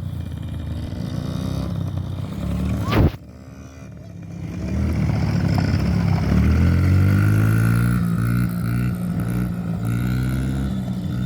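Dirt bike engine running. A sharp knock comes about three seconds in, and then the engine revs up and holds at a higher, steady pitch.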